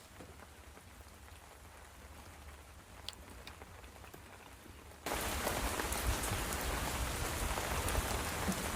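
Steady rain. It is faint at first, with a few light ticks, then comes in suddenly loud as a dense, even hiss about five seconds in.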